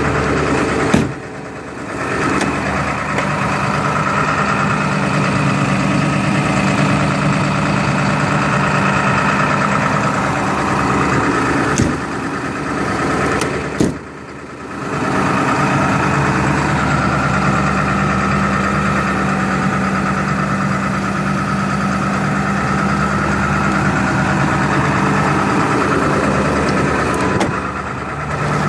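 Ford 7.3 L Power Stroke V8 turbo-diesel idling steadily while still cold from a cold start without the block heater. A few sharp knocks, twice followed by the engine sounding briefly muffled and quieter.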